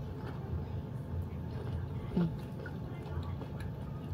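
Chewing a mouthful of raw okra, with small clicking mouth sounds and a brief closed-mouth hum about two seconds in.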